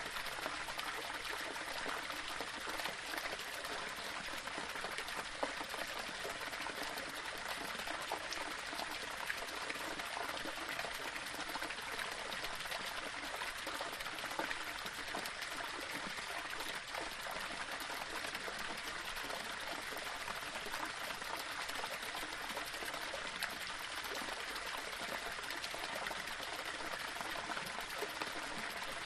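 Small waterfall: water spilling and trickling over rocks in a steady, even splashing rush.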